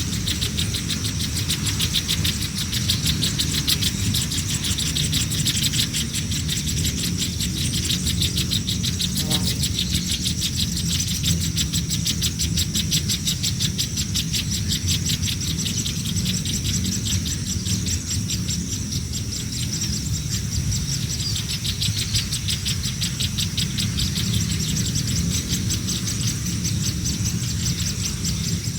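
Hungry nestlings begging: continuous, rapid high-pitched chirping with no pauses, over a steady low rumble.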